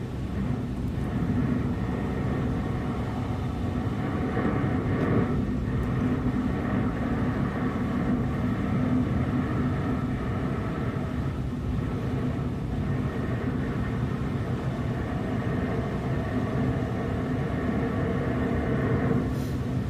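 A car driving at steady speed: engine hum and tyre and road noise, with the engine pitch shifting slightly.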